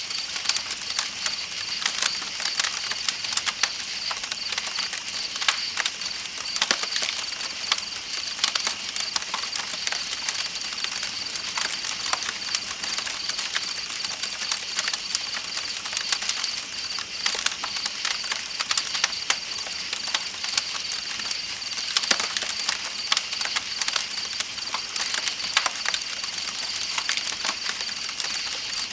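Campfire crackling with frequent sharp pops, over a steady high-pitched trill of night insects and the constant rushing hiss of a flowing river.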